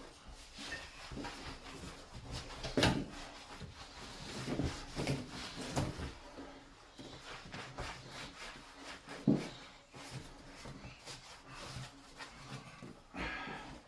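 Scattered knocks and clunks of things being handled and moved, with four or so sharper knocks standing out over softer shuffling and rustling.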